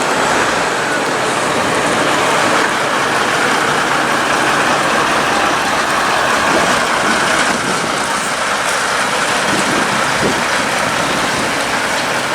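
Heavy haulage trucks running under load: a loud, steady noise of big diesel engines and tyres.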